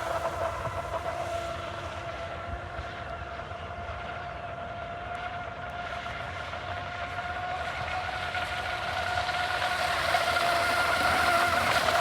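Electric RC speedboat (Rockstar Veles 29) running on the water with a steady, high motor whine that fades as it pulls away and grows louder again near the end. It is running slow because its hull is filling with water through a drain plug left out.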